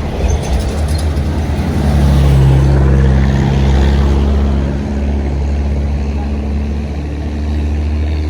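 Engine of a heavy road vehicle running as it passes close by. It is a deep, steady engine note that grows loudest about two to four seconds in and then eases off slightly.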